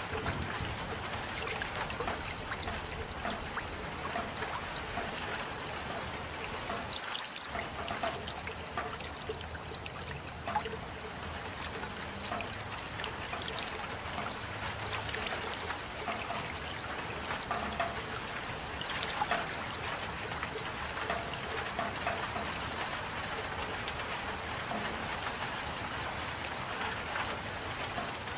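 Steady rain falling, with many separate drops ticking and water trickling.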